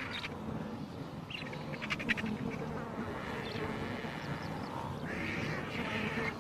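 Vultures squabbling over a carcass: raspy squawks and hisses, with a quick run of sharp clicks about two seconds in.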